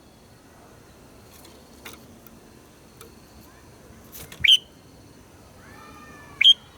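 Red-whiskered bulbul calling: two short, sharp, loud notes about two seconds apart, the second preceded by faint gliding whistles, over a low hiss.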